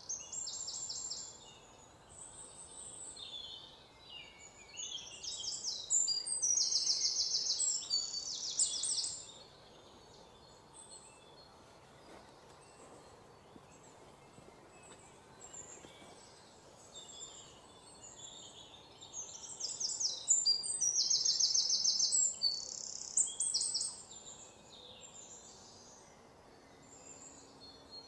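Birds chirping in rapid high trills, in two long spells with scattered quieter calls between.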